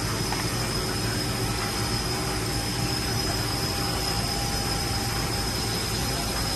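Kiwa KMH300A four-axis horizontal machining center running with its axes being moved, giving a steady mechanical hum with a thin, high-pitched whine.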